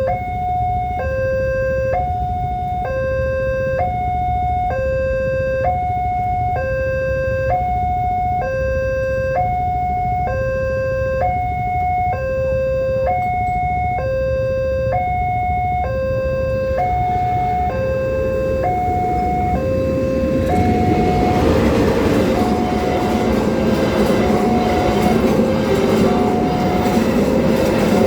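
Railway level-crossing warning alarm sounding an electronic two-tone signal, a lower and a higher tone alternating a little under once a second. About twenty seconds in, the noise of an approaching train rises and grows loud under the alarm as the train reaches the crossing.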